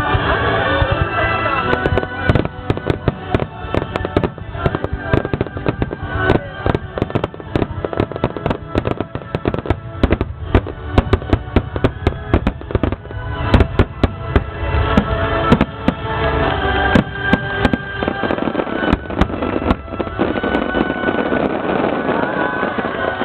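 A rapid starmine barrage of fireworks: dense, sharp bangs and crackles of shells bursting in quick succession over loud music played through festival loudspeakers. The bursts thin out about twenty seconds in, leaving mostly the music.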